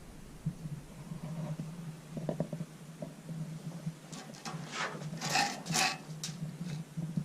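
A few clinks and knocks of metal being handled, loudest in a cluster about five to six seconds in, over a steady low hum.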